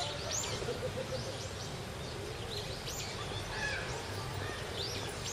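Small birds chirping, a scatter of short high chirps, several each second, over a steady low background hum.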